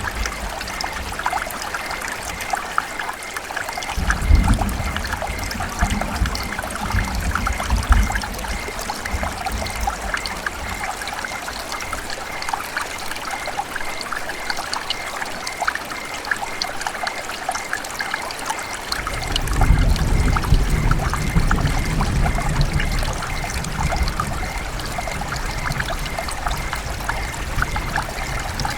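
River water running and trickling steadily, full of small splashes. Twice a low rumble swells up under it, about four seconds in and again near twenty seconds in, each lasting a few seconds.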